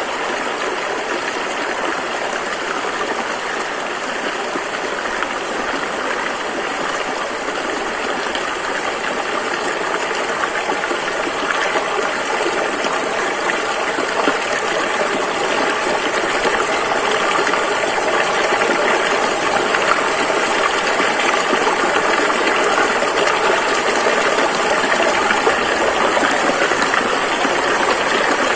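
A rushing river flowing in rapids: a steady, dense roar of water.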